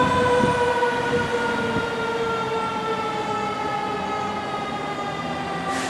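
Fire truck siren sounding one long held tone that slowly slides lower in pitch and fades. A brief hiss comes near the end.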